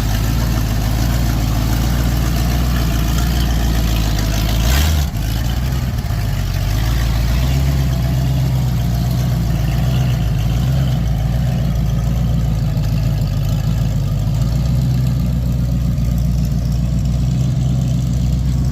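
1992 Ford F350 tow truck's engine running rough at low revs, a steady low drone, with one brief loud burst about five seconds in.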